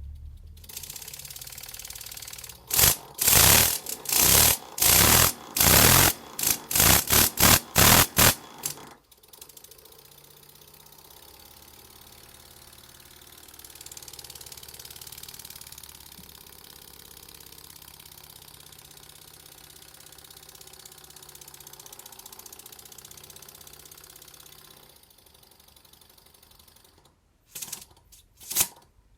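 Double-acting wobbler model steam engine running slowly. A steady hiss is followed by a run of loud exhaust chuffs, about one or two a second, for some six seconds, which then give way to a quieter steady hiss. A few more chuffs come near the end as it starts up again.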